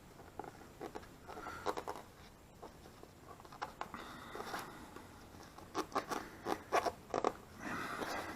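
A fingernail rubbing and scraping over a vinyl sticker on a motorcycle side panel in short, irregular strokes, pressing the sticker's edges down so they adhere.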